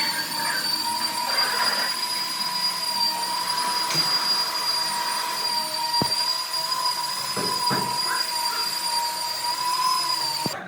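A power tool running with a steady, high-pitched whine that cuts off suddenly near the end, with a few sharp clicks along the way.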